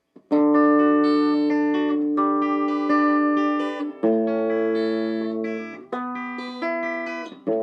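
Instrumental guitar intro to a song: four chords, each struck and left to ring, the first held about four seconds and the rest changing about every two seconds.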